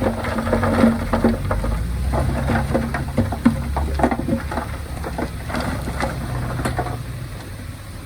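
Heavy equipment's diesel engine running with a low rumble, under an irregular crackling and clatter of soil and stones being moved. The clatter thins out about seven seconds in.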